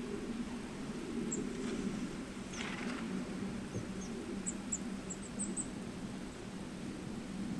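Small birds chirping in short, high peeps, with a quick run of them a little past halfway, over a steady low rumble.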